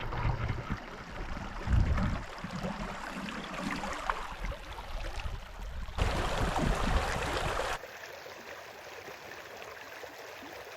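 Small mountain creek running, with low gusts of wind on the microphone over the first few seconds. The sound changes abruptly twice, then settles into a steady, quieter rush of flowing water.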